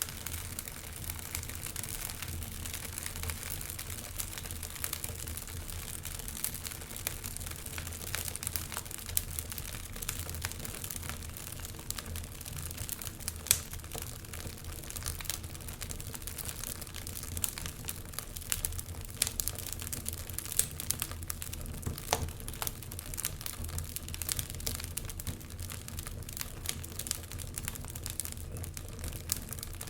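Wood fire burning in a fireplace: continuous crackling with many small pops over a low, steady rumble of the flames, and a few sharper pops along the way.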